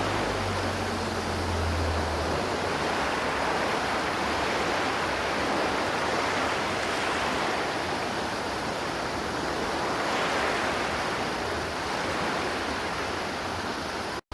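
River water flowing and rushing steadily, an even wash of water noise that breaks off for an instant near the end.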